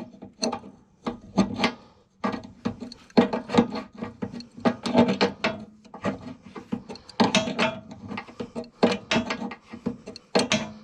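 Hand-tool work on heavy battery cables and their terminals: a run of irregular rasping, scraping strokes with clicks, coming in flurries with short lulls about two and six seconds in.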